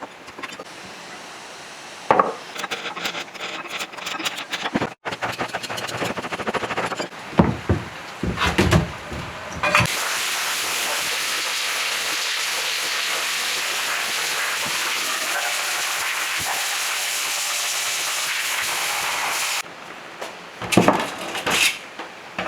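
Metal tools knocking and clicking while working on an electric motor's bearing. Then a steady hiss lasts about ten seconds and cuts off suddenly.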